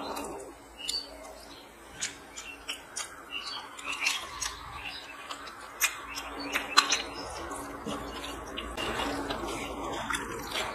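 Close-miked chewing and lip-smacking of chicken gizzard curry and rice eaten by hand, an irregular run of wet clicks and smacks, with fingers squishing and mixing rice and gravy on the plate.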